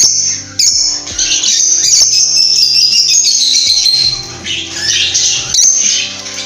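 Lovebirds calling in a constant shrill, high-pitched chatter of squawks and chirps, with a dip about four seconds in. Background music with sustained low notes plays underneath.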